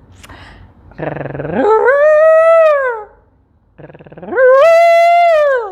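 A woman's voice imitating an elephant's trumpet call, twice: each starts with a low buzz, jumps to a high held note and falls away at the end.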